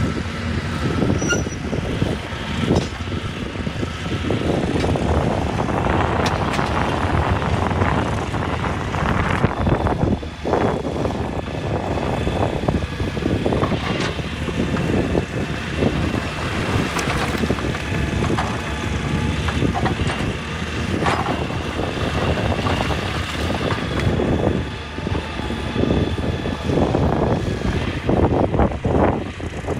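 Excavator's diesel engine running continuously, with irregular knocks and scraping on top.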